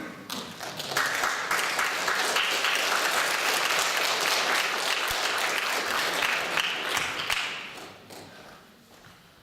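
Audience applauding in a concert hall. The applause swells in about a second in, holds steady, then dies away near the end.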